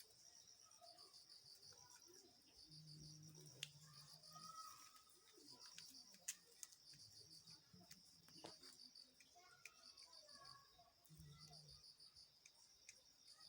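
Faint crickets chirping in steady trains of rapid, high-pitched pulses, with a few sharp clicks mixed in.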